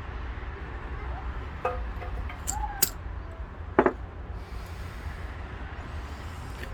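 A few sharp metallic clinks and knocks, the loudest a little under four seconds in, as small lawn-tractor transmission parts are handled and set down, over a steady low hum.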